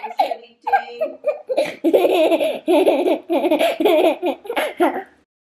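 A young child laughing hard, in a quick run of about four ha's a second that builds about a second and a half in and stops just before the end.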